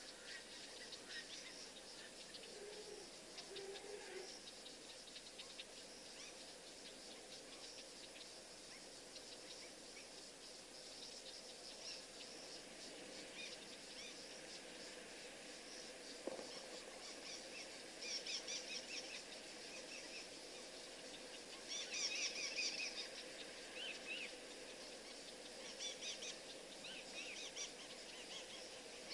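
Birds chirping in short clusters of calls, the loudest a little past the middle, over a faint steady high hiss of outdoor ambience.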